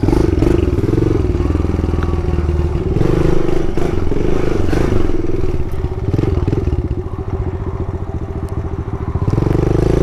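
Kawasaki KLX110 pit bike's single-cylinder four-stroke engine running under way. The throttle eases off about six seconds in to a quieter, even putter, then opens up again near the end.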